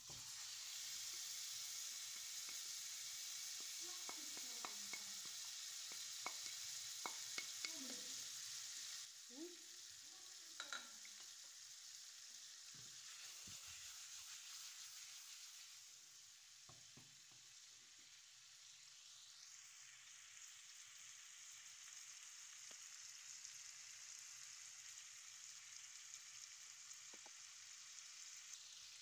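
Marinated chicken wings sizzling in hot oil in a frying pan, with a wooden spatula knocking and scraping against the pan as they are stirred. The sizzle drops somewhat after about nine seconds.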